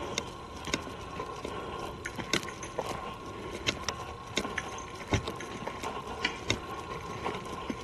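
Footsteps on a forest trail: irregular crackles and snaps of leaves and twigs underfoot, a few a second, over a faint steady high tone.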